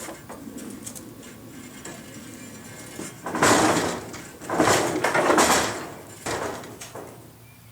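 Scraping and sliding of metal parts being handled, in three noisy bursts a few seconds in, the middle one the longest.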